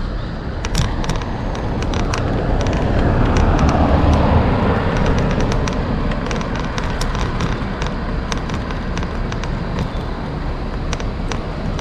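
Road and traffic noise with wind on the microphone, recorded while riding a road bike, swelling about four seconds in as the traffic noise peaks, with scattered sharp clicks throughout.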